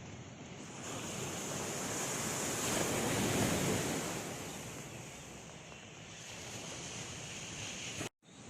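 Sea waves breaking on a sandy beach: one wave swells and crashes about three seconds in, then washes back, with wind buffeting the microphone. The sound cuts out abruptly for an instant near the end.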